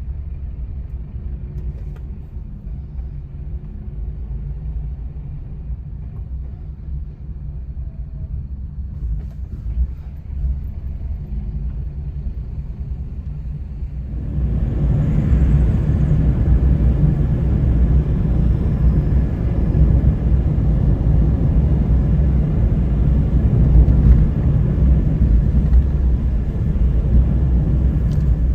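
Surf on a beach: a steady low rumble of breaking waves that grows louder and fuller about halfway through.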